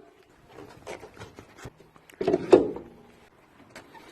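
Scattered small clicks and rubbing from handling washing-machine parts, with a louder knock about two and a half seconds in.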